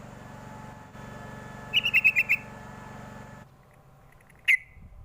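Yellow-vented bulbul (trucuk) calling: a quick run of about six chirping notes about two seconds in, then a single sharp downward-sliding note near the end. A steady low hum underneath cuts off about three and a half seconds in.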